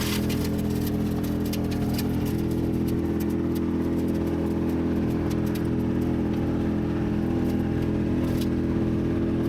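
A large machine's engine running steadily at constant speed, with scattered light clicks and knocks over it.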